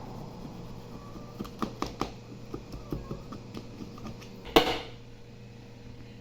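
Irregular light taps and clicks of a utensil against a cake pan, with one louder knock about four and a half seconds in, as a stuck cake is worked loose from the pan.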